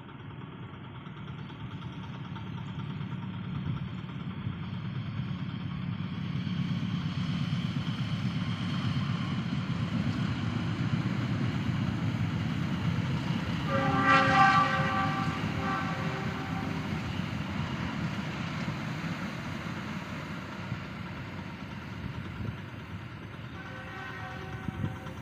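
Argo Bromo Anggrek express passenger train passing at speed. The rumble of the locomotive and carriages builds up and the locomotive's horn sounds for about a second at the loudest point midway, then the rumble fades away. Another short horn blast comes near the end.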